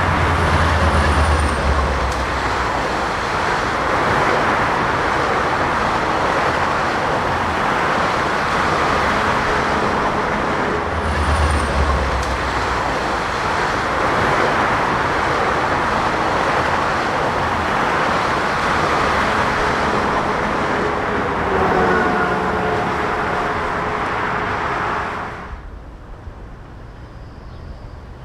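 GO Transit diesel commuter train rolling past, a steady loud rush of wheels on rails with deep rumbles near the start and about 11 seconds in, and faint steady tones now and then. The noise drops off sharply about 25 seconds in.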